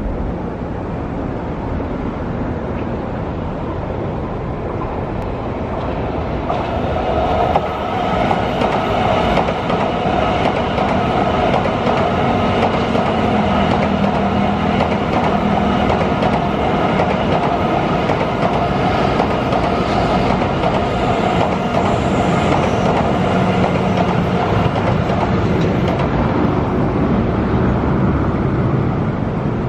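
An N700A Tokaido Shinkansen train passing on the tracks. The running noise swells about seven seconds in, holds steady for some twenty seconds while the long trainset goes by, and dies away near the end.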